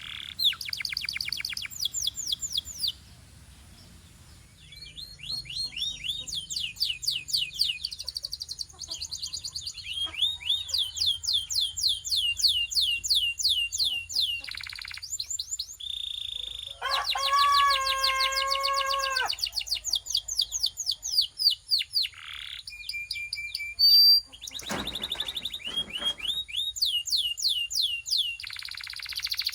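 Belgian canary singing: phrases of fast, evenly repeated trilled notes broken by short pauses, with a lower, fuller rolling phrase just past the middle.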